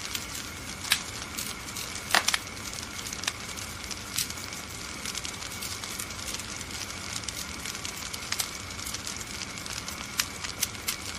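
Wood fire burning in a fireplace, crackling: a steady hiss with frequent sharp pops, the loudest a quick double pop about two seconds in.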